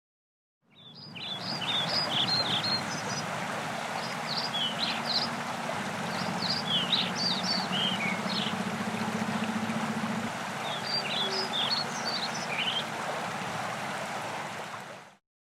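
Songbird singing in three bursts of quick, high chirping phrases over the steady rush of a stream, fading in at the start and out near the end.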